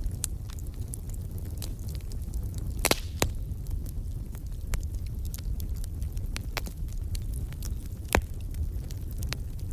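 Wood fire in a fireplace crackling, with irregular sharp pops, a few of them louder, over a low steady rumble.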